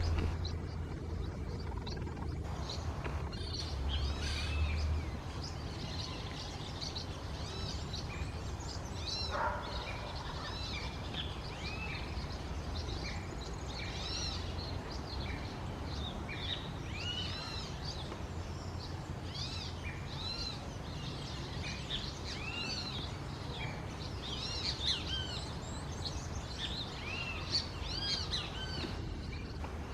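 Several birds chirping, many short arching calls overlapping and growing denser after the first third, over a steady low rumble.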